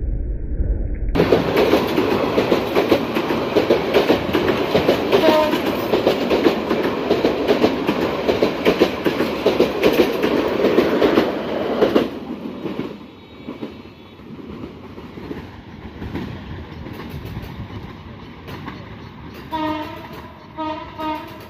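Passenger train's coaches passing close by: a loud, dense clatter of wheels over the rail joints that starts abruptly about a second in and drops away sharply about halfway through. The rest is quieter, with three or four short honks near the end.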